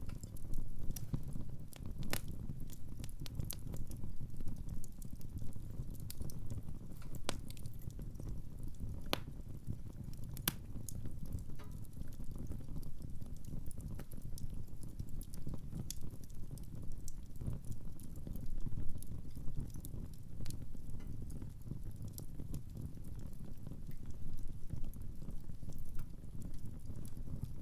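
Wood fire in a fireplace crackling, with irregular sharp pops and snaps over a low, steady rumble of the flames.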